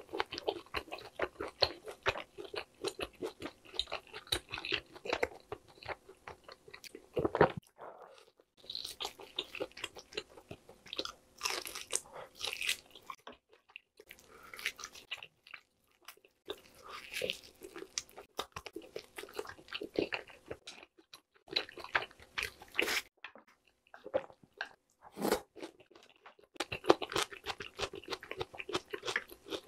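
Close-miked chewing and biting of grilled lamb skewer meat: wet, irregular mouth clicks and smacks, with a few short pauses.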